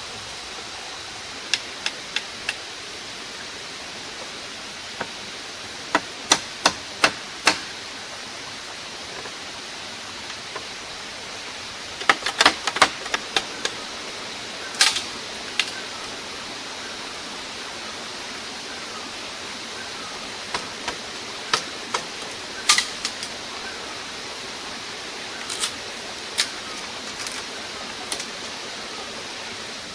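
Wood being struck with a hand tool in short runs of sharp knocks, several in quick succession and then pauses, over a steady rushing background noise.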